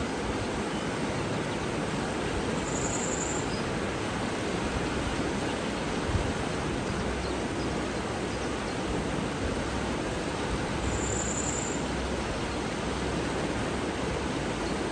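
Steady rushing of water. Two brief high chirps cut in, about eight seconds apart.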